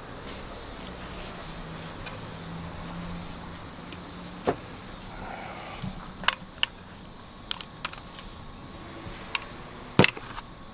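Scattered sharp metallic clinks and knocks of tools and loose door hardware being handled, about eight in all, the loudest near the end. A faint low hum runs under the first few seconds.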